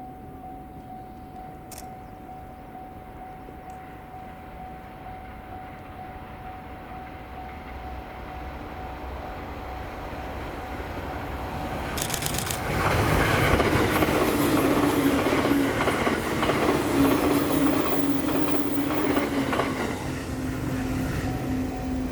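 A train approaching and passing close by: its rumble builds, then about twelve seconds in it turns loud, with wheels clattering over the rail joints and a steady low drone. It eases off near the end.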